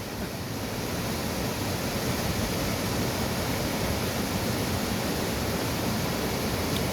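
Steady rush of a swollen monsoon-season mountain river, an even wash of water noise that grows slightly louder after about a second.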